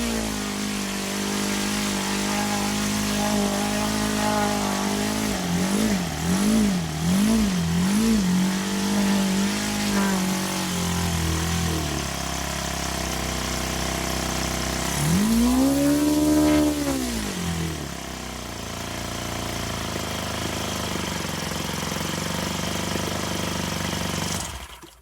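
OS Surpass 48 single-cylinder glow four-stroke model aircraft engine running just after starting. It idles steadily, is blipped up and down three times, then is run up once smoothly and back down. It idles on lower and cuts off near the end.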